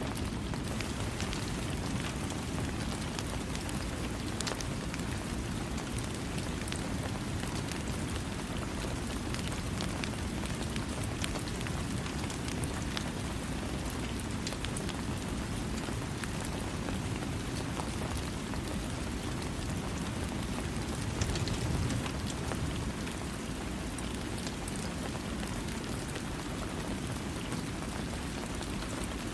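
Steady rain falling on surfaces, a dense even hiss with a low rumble and scattered individual drop ticks, swelling slightly about two-thirds of the way through; no thunder.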